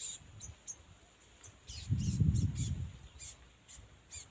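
Small birds giving short, high chirps, repeated many times. A low rumble about two seconds in is the loudest sound.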